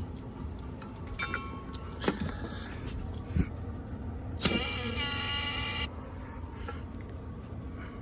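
Short blast of pressurized gas through a regulator and nozzle into a clogged AC condensate drain line, at about 50 psi: a loud hiss with a whistling tone lasting about a second and a half, about halfway in. A few clicks and knocks of handling come before it.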